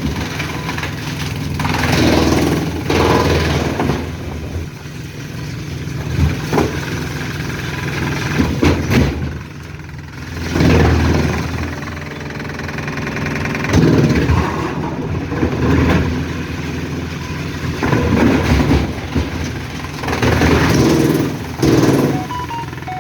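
Diesel engine of heavy machinery running steadily, with repeated louder surges every two or three seconds as it works under load.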